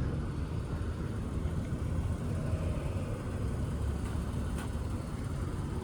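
The 3.6-litre Pentastar V6 of a 2017 Dodge Challenger GT idling, a steady low rumble, with one brief click about four and a half seconds in.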